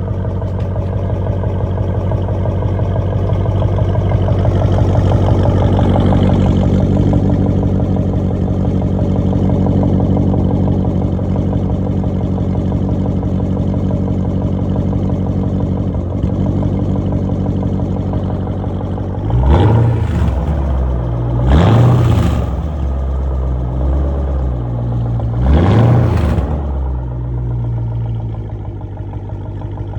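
Jeep Grand Cherokee SRT8's 6.4-litre V8 running through a modified, freer-flowing exhaust: a steady idle, then three quick revs of the throttle in the second half, each rising sharply and dropping back to idle.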